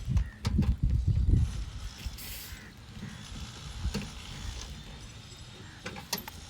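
Handling knocks and small metallic clicks as a pressure gauge hose is screwed onto the AC's service port, with a short hiss about two seconds in.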